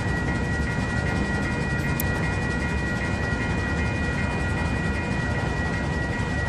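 Level-crossing warning bell ringing steadily and evenly over a constant low rumble. The crossing signal is still active because the train has stopped just past the crossing, not far enough for the gates to reset.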